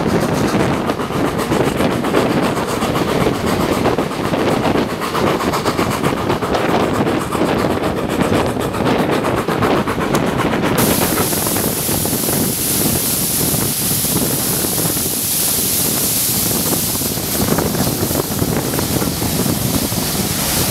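Steam-hauled train running, heard from an open carriage window: a steady rush of wheels on rail, with wind buffeting the microphone. About halfway the sound changes abruptly and a steady high hiss joins in.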